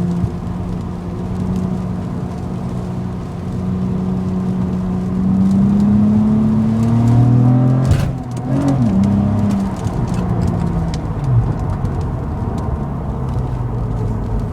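Car exhaust droning steadily as the car drives, the engine note rising slowly over the first eight seconds. About eight seconds in there is a sharp knock and the engine note drops, then settles at a steady lower pitch.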